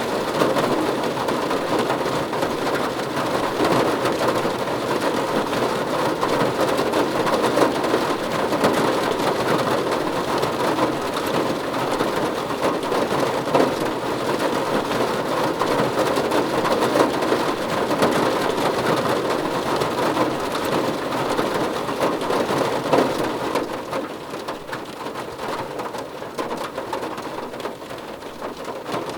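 Steady rain pattering on a car roof, a dense hiss of many small drop impacts. It eases a little about 24 seconds in.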